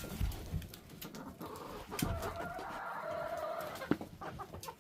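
Backyard chickens making soft clucking and drawn-out murmuring calls, with a longer call about two seconds in and a few small knocks.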